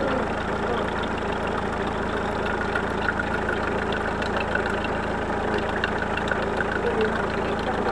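Car engine idling steadily, with a light, irregular tapping from the hydraulic valve lifters; the 263,000 km engine's lifters rattle slightly when warm.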